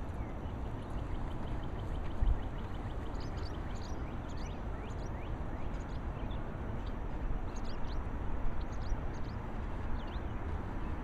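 Faint bird chirps and calls over a steady low rumble of wind and handling on the microphone: a quick run of evenly spaced chirps starts about a second in, then scattered high, falling calls. A brief low bump comes about two seconds in.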